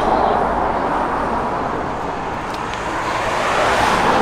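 Road traffic going by: a steady rush of tyre and engine noise that swells twice, just after the start and again near the end, as vehicles pass.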